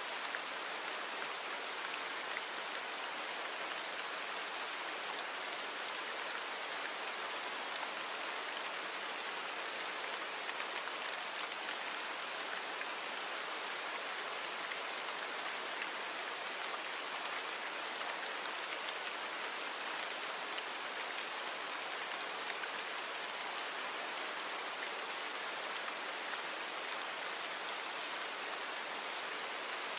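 Steady rain falling, an even hiss of many drops with little low rumble.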